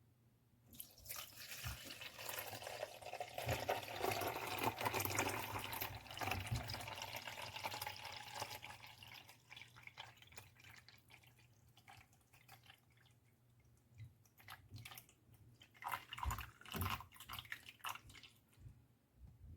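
Water running and splashing, loudest over the first several seconds, then tapering off into scattered drips and crackles.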